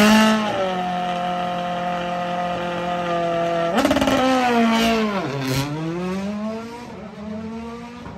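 Citroën DS3 rally car's turbocharged four-cylinder engine running while stationary. It holds a steady speed, is blipped up about four seconds in, drops back down and then climbs slowly again before fading.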